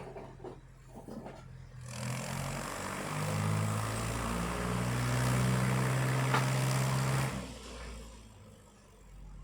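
Tractor engine labouring under load. It grows much louder about two seconds in, its pitch shifting up and down for several seconds, then falls back to a quieter running sound near the end.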